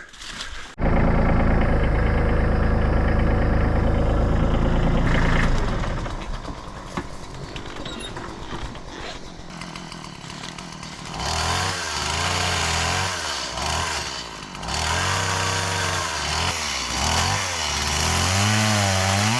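A gas chainsaw running: a loud, steady stretch for the first few seconds, then after a quieter spell the engine revs up and down.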